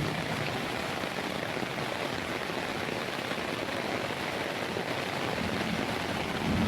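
Steady rushing hiss of a heavy downpour, even and unbroken.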